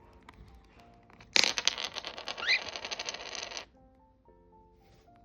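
A budgerigar's rapid, clicking chatter for about two seconds, with a short rising chirp in the middle, over soft background music.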